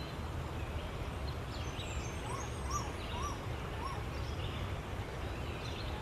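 Outdoor ambience of a steady low background rumble with birds calling. From about two seconds in, a run of short rising-and-falling notes repeats about twice a second, with fainter high chirps among them.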